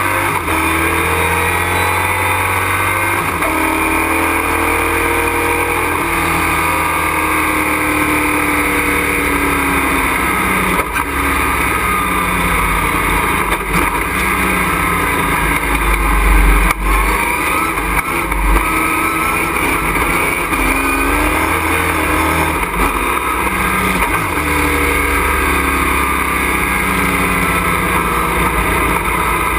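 Racing truck's engine heard from inside the cockpit, its pitch climbing and falling repeatedly as it accelerates and slows, over steady wind and road noise, with a few brief low thumps near the middle.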